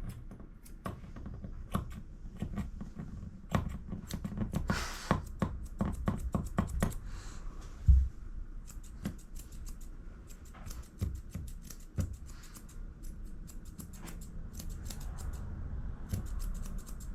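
Grooming scissors snipping at a puppy's paw fur: many short, irregular metal clicks, with one louder thump about eight seconds in.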